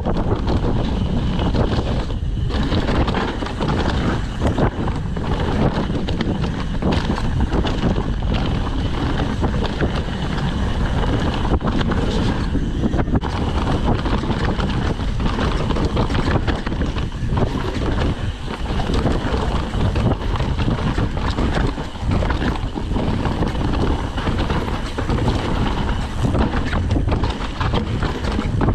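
Wind rushing over a chest-mounted GoPro's microphone during a fast downhill mountain-bike descent, mixed with the Trek Session downhill bike's tyres and frame rattling over rough, damp trail. The noise is loud and constant, with sharp jolts throughout.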